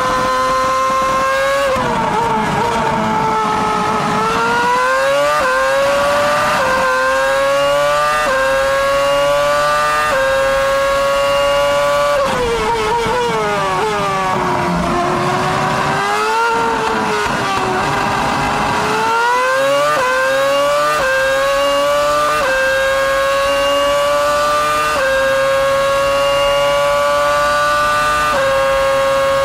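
2006 Ferrari Formula 1 car's 2.4-litre V8 engine, heard onboard at racing speed. It climbs in pitch through each gear and drops sharply at every upshift. Twice, at about two seconds and about twelve seconds in, the revs fall away through a string of downshifts for a corner before climbing back through the gears. Near the end it holds long high notes at full throttle.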